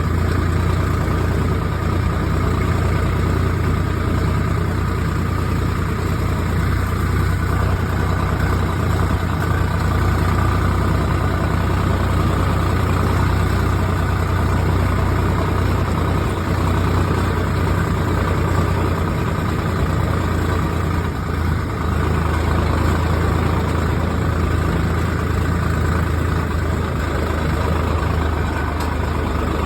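A motor vehicle's engine running steadily, with a constant low hum and no change in speed.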